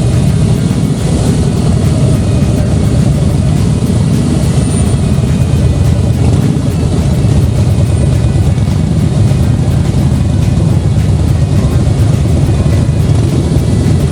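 Motorcycle engines running loudly, a steady deep rumble with rapid firing pulses.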